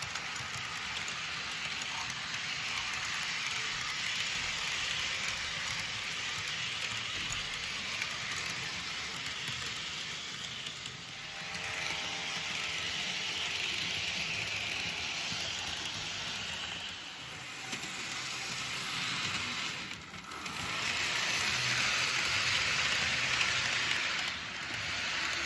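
Model train running along the track: a continuous metallic rattle of small wheels rolling over the rails. It swells and eases as the train goes past.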